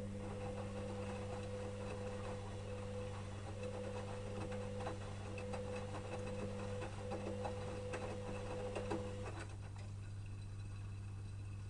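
Electrolux EWS 1045 washing machine turning its drum at steady wash speed: a steady motor whine with scattered light clicks and knocks. The drum stops about nine seconds in, leaving a steady low hum.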